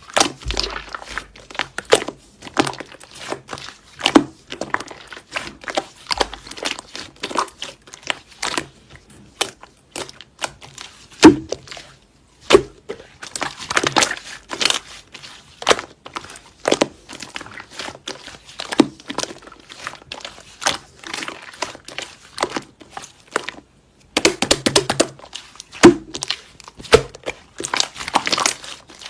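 Slime being squished and pressed by hand, with a steady stream of small sticky crackles and pops and a few louder snaps.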